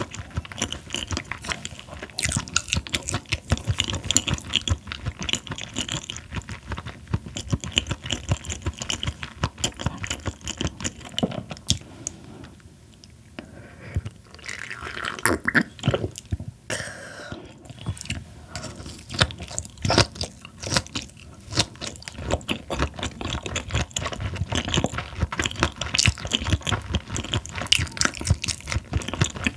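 Close-miked chewing of raw Chinese herring sashimi: wet mouth sounds with crunchy bites, the fish's fine bones crunching between the teeth. It quiets briefly about twelve seconds in, then carries on.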